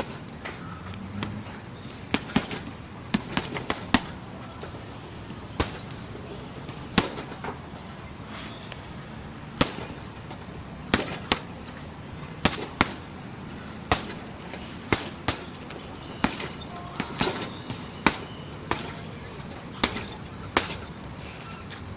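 Strikes landing on a heavy punching bag: sharp slaps at an irregular pace, some thrown in quick combinations of two or three.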